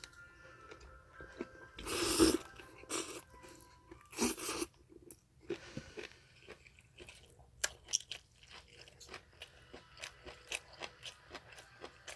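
Close-up eating sounds of someone chewing japchae, Korean stir-fried glass noodles: two louder noisy mouthfuls in the first few seconds, then a run of short chewing clicks, about two to three a second.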